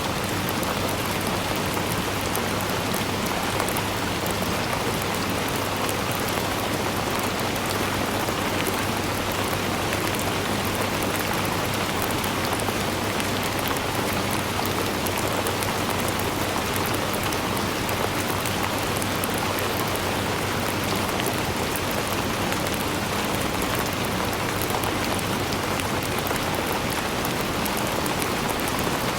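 Steady rainfall, an even hiss of many drops with fine patter, unchanging in strength.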